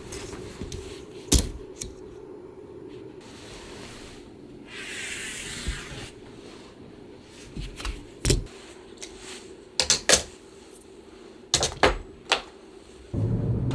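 Irregular sharp clicks and knocks of upholstery hand tools working on a chair, about seven distinct hits, with a short hiss about five seconds in. Near the end a loud steady rushing noise starts.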